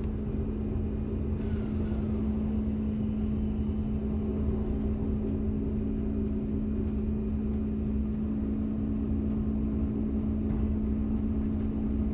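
Diesel regional train running at speed, heard from inside the carriage: a steady engine drone with a constant hum over the rumble of wheels on the track. A brief faint squeal comes about a second and a half in.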